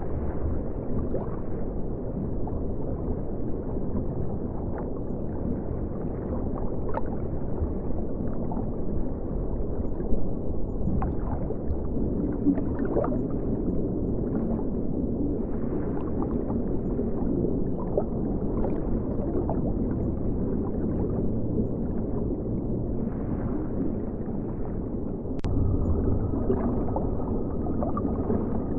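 River water flowing, heard muffled as a steady low rushing and gurgling, with scattered small clicks and ticks and one sharp click near the end.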